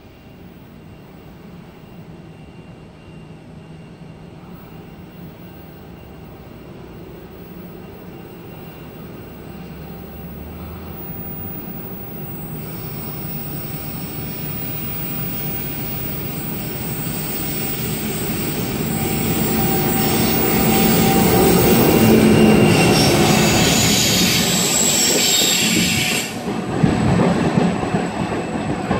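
81 class diesel-electric locomotive hauling a freight transfer train, heard approaching from a distance and growing steadily louder. Engine and wheel-on-rail noise peaks as it passes close, about three quarters of the way in, then drops away.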